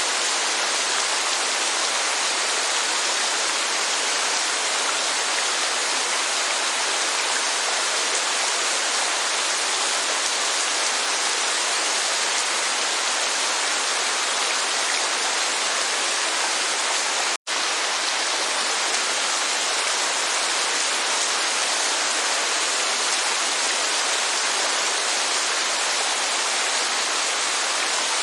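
Steady, even rush of rain and a waterfall. It drops out for a split second about two-thirds of the way through.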